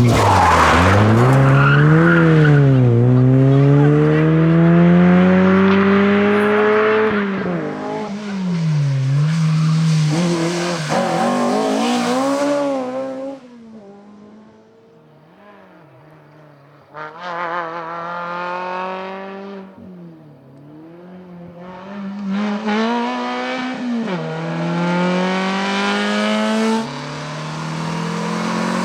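Rally car engines at full throttle, the engine note climbing and dropping again and again through gear changes and lifts off the throttle. The engine drops to a quieter, distant note a little past halfway, then comes back loud and revving hard.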